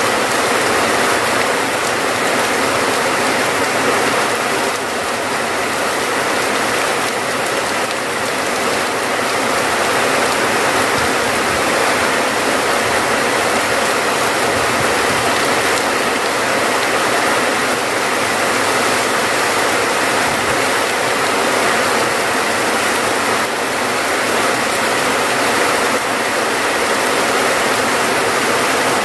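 Steady rain falling: a dense, even hiss with no separate drops or breaks.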